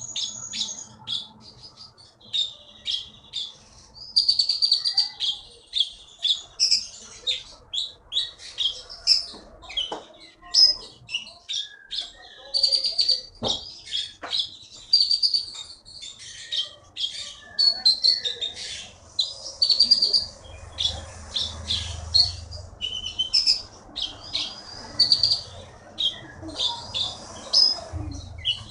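Konin songbird singing in full voice: a continuous run of rapid, high chirps and short trilled phrases.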